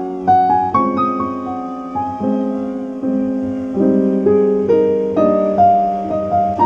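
Background music: solo piano playing a gentle melody, notes struck and left to ring and fade.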